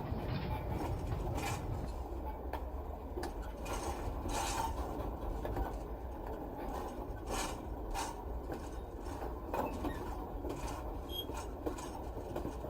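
Slow-moving model steam freight train: a steady low rumble with scattered, irregular clanks and clicks as the train moves at low speed to pick up hopper cars.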